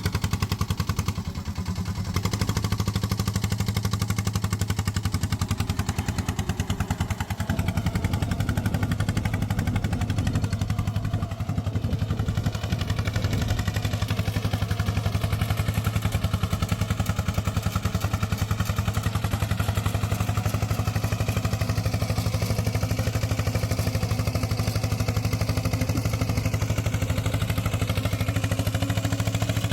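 The small engine of a homemade mini tractor, running steadily with a fast, even pulse while it pulls a harrow.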